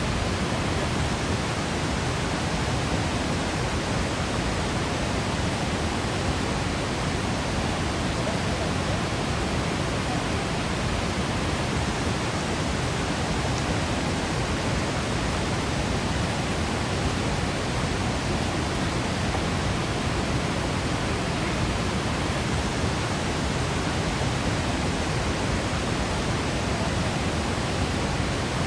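Waterfall water falling and crashing steadily, a constant even rush heavy in the lows.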